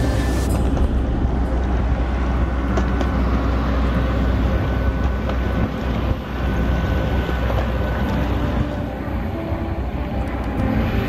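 Boeing 737 cabin noise after landing: a steady low rumble of engines and airflow with an even hiss above it.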